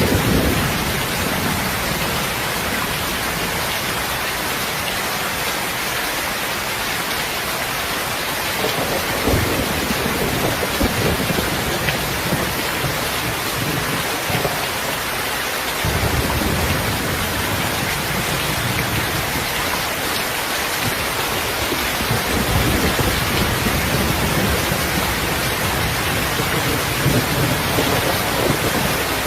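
Steady heavy rain with low rolls of thunder swelling up several times: about a third of the way in, around halfway, and again toward the end.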